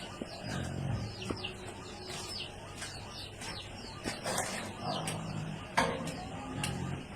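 Farmyard birds calling: many short, high calls that fall in pitch, with a few short low calls in between.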